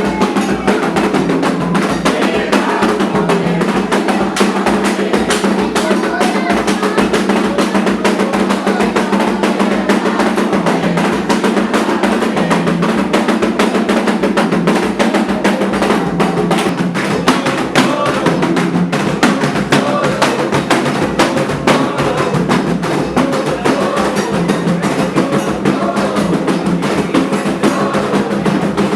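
Candomblé ritual drumming on hand drums, fast and continuous, with voices singing a chant over it.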